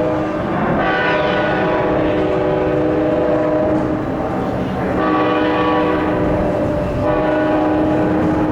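EMD F59PHI diesel locomotive of a Sounder commuter train sounding its air horn: a loud, steady multi-note chord held in long blasts, with brief breaks about half a second in, around four seconds in and around seven seconds in.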